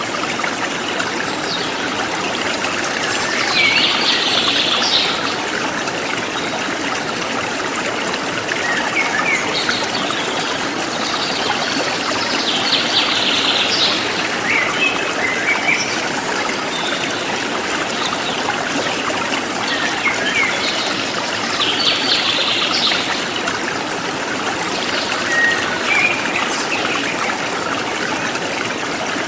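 Forest stream flowing steadily over rocks, with small birds chirping in short bursts every few seconds.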